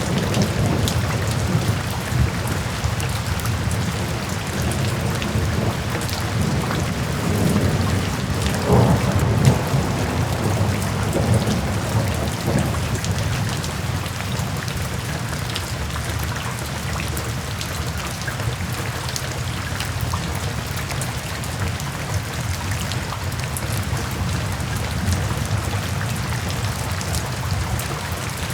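Steady rainfall with fine pattering drops throughout, under a low rolling rumble of thunder that swells in the first half and fades away about halfway through.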